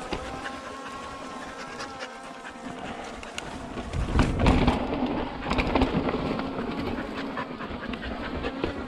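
A Skydio 2 quadcopter drone's propellers buzzing with a steady pitched whine. From about four seconds in, louder rattling and knocks of a mountain bike rolling over rock join the buzz.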